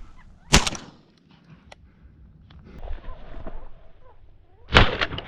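Two gunshots about four seconds apart, each a sharp crack with a short trailing echo.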